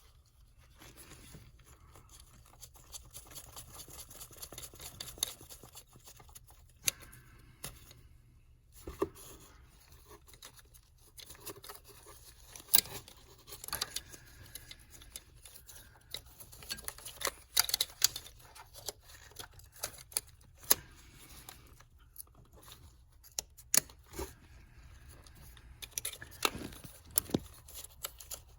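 Irregular clicks, taps and short scrapes of hand tools and small parts being handled, over a low steady hum.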